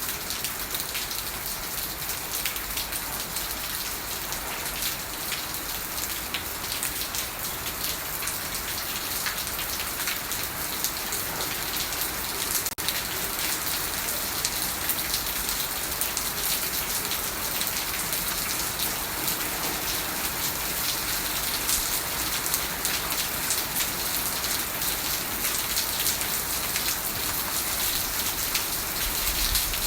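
Steady rain falling, a dense patter of raindrops on surfaces, with one brief break near the middle.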